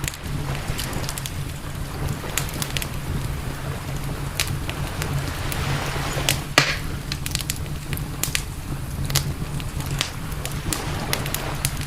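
Campfire crackling, with frequent sharp pops scattered irregularly and one louder pop about six and a half seconds in, over a steady low rumble.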